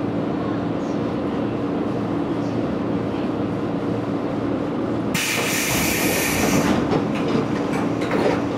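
115-series electric train standing at a platform, its equipment humming steadily with a low tone. About five seconds in, a sudden loud hiss of compressed air is let out for about a second and a half, then fades.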